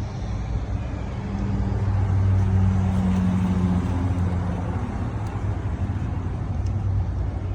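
A motor vehicle engine running with a steady low hum, swelling a little about two to four seconds in.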